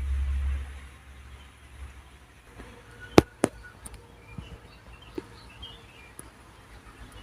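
Two sharp cracks about a quarter second apart, the loudest sound, with faint wild bird chirps after them. A low rumble runs through the first second.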